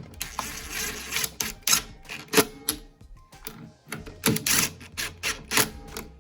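Irregular metallic clicks and clinks of hand tools and small parts as nuts are threaded on to hold a lawnmower engine's carburetor in place.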